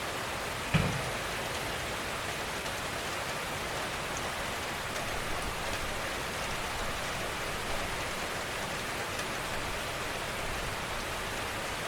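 Steady gentle rain falling, with a single louder thump just under a second in.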